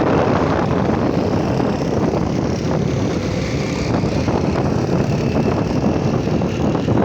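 Wind rushing over the microphone of a moving motorcycle, with the bike's engine and road noise beneath it, loud and steady.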